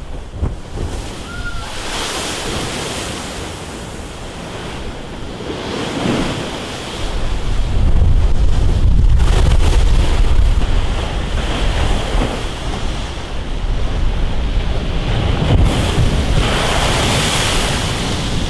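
Storm-driven sea waves surging and crashing, with strong wind buffeting the microphone. The low wind rumble gets much heavier about seven seconds in.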